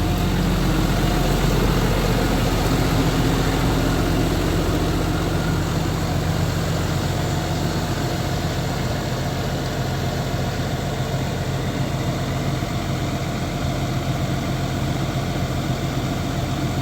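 Volvo FL 290 box truck's six-cylinder diesel engine idling steadily, easing a little quieter over the first few seconds before settling.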